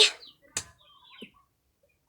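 A single short click about half a second in, then faint bird chirps.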